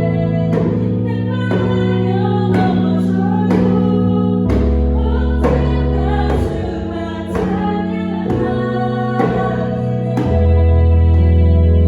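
Slow gospel worship song: sustained keyboard chords and bass notes under a solo voice singing, with a beat struck about once a second, likely the djembe.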